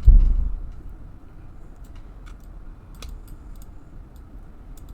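A dull low thump right at the start, then a few scattered light clicks of a computer keyboard and mouse.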